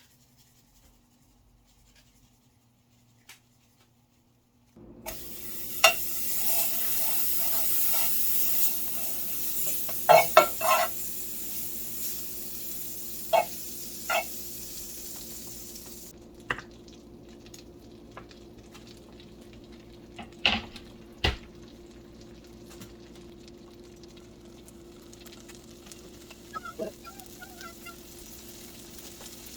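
Seasoned trout frying in a hot pan: a sudden loud sizzle starts about five seconds in and softens partway through, with scattered clinks and knocks of a utensil against the pan.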